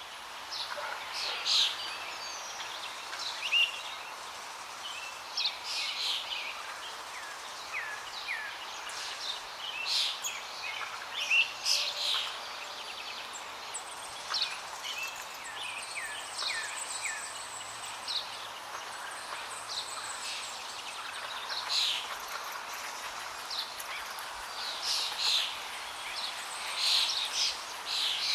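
Wild birds chirping and calling, many short high notes and quick falling whistles from several birds throughout, over a steady background hiss.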